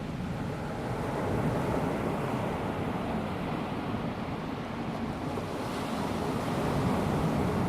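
Small waves of a calm sea washing onto a sandy beach, a steady surf hiss that swells gently about a second and a half in and again near the end.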